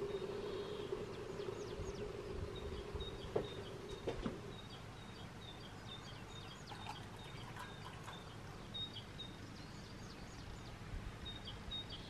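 Small birds chirping outside an open window: short, high calls repeated again and again over a faint outdoor background. A steady low tone fades out about four seconds in.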